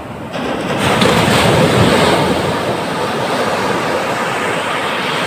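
Indian Ocean surf at high tide: a wave breaks with a surge of rushing water about half a second in, and the loud wash of whitewater carries on steadily afterwards.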